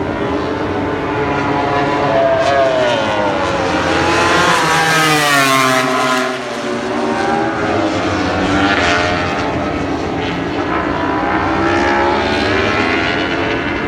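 MotoGP race bikes going past at speed one after another, their engine notes rising and falling with the revs. The loudest pass comes about five seconds in, its pitch dropping as it goes away, with more bikes passing after it.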